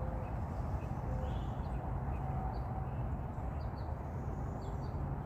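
Faint, short chirps of small birds scattered over a steady low background rumble.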